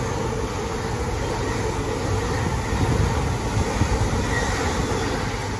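LNER intercity passenger train running past the platform: a steady, loud rumble and rush of wheels on rail.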